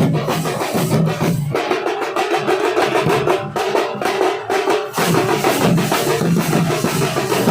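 Nasik dhol band drumming: a loud, dense rhythm of big dhol drums and higher, faster drums. About one and a half seconds in the deep drums drop out, leaving only the rapid higher drumming. The full band comes back in about five seconds in.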